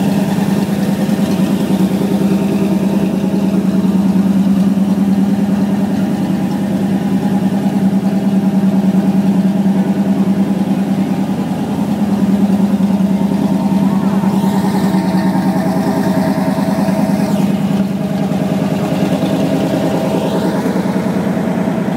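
Fire engine's diesel engine idling with a steady low hum. A hiss lasts about three seconds a little past the middle.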